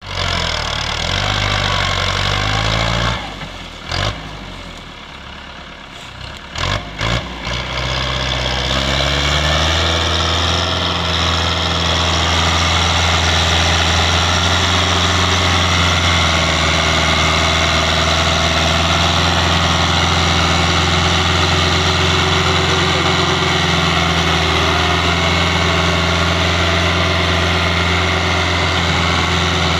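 Ford tractor engine running. It drops to a lower, quieter stretch with a few sharp knocks, then picks up in steps and settles into a steady run for the rest of the time.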